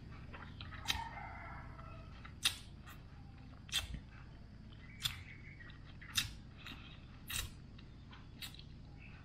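A person chewing rice and fish with the mouth open, with a short sharp smack about every second, seven in all.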